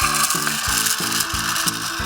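A miniature die-cast garbage truck rolling down a toy slope, its small wheels making a steady rolling rattle, with background music beating about three times a second underneath.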